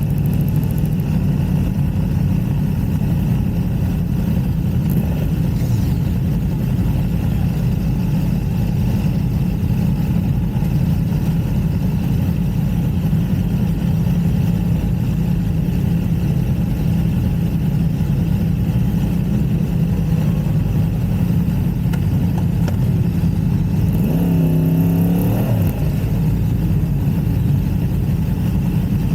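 Motorcycle at speed on a race track: steady wind rush over a low engine drone. Near the end the engine's pitch rises and falls briefly as the revs change.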